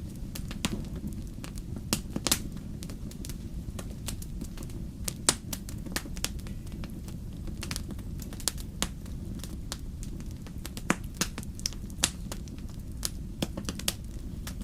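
Wood fire burning in a fireplace: a steady low rumble of flames with irregular sharp crackles and a few louder pops.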